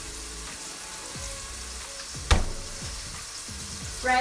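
Mushrooms frying in a pot with a steady sizzle. A single sharp knock, likely a utensil or container striking the pan, comes about two seconds in.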